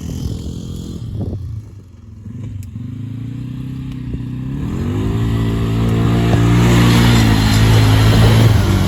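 ATV engine running, easing off about two seconds in, then revving up about halfway through and staying loud under load. A growing hiss from the spinning tyres churning through mud comes in near the end.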